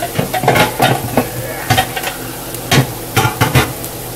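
Potatoes and cauliflower sizzling in a frying pan of hot oil, a steady hiss broken by irregular sharp crackles and pops.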